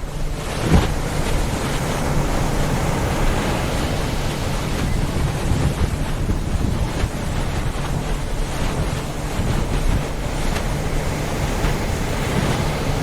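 A motorboat running on open water: rushing wind on the microphone and water noise over a steady low engine hum, with a sharp thump a little under a second in.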